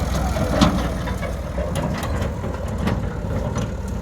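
Heavy diesel engine running steadily at low revs. A sharp knock comes just over half a second in, with lighter knocks through the rest.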